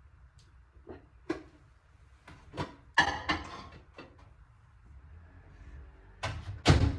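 Household objects being handled and set down: scattered light knocks and clicks, a short rattling clatter about three seconds in, and two louder knocks near the end.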